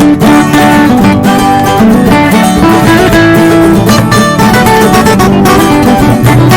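Music: acoustic guitar being strummed.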